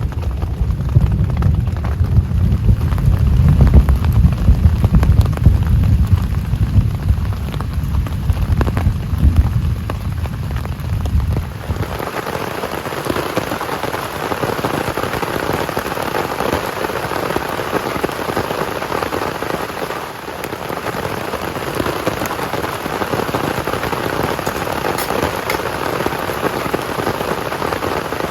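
Heavy rain falling steadily. For roughly the first twelve seconds a deep rumble lies under it, then it cuts suddenly to a brighter, even hiss of rain.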